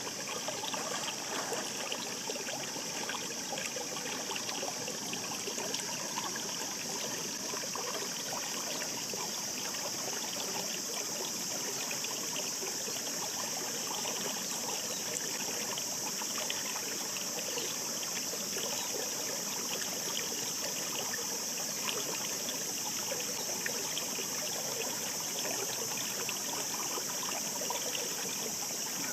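A shallow mountain stream babbling over stones: steady rushing water with constant small splashes and gurgles.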